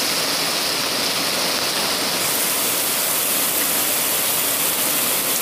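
Heavy downpour of rain falling steadily onto a flooded dirt road and its puddles, a dense even hiss that turns a little brighter about two seconds in.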